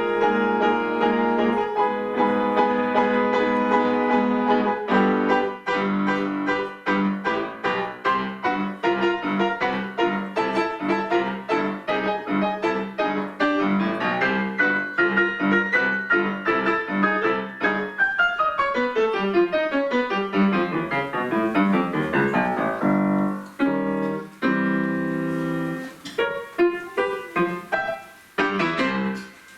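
Piano duet (four hands) playing a lively piece. About two-thirds of the way in there is a long descending run, and then a few loud closing chords end it near the end.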